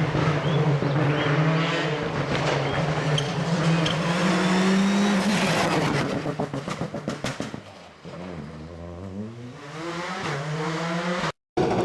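Rally car engine held at high revs as the car passes, then fading with a quick run of pops about six seconds in. A second rally car's engine then rises as it accelerates toward the microphone, broken by a brief dropout near the end.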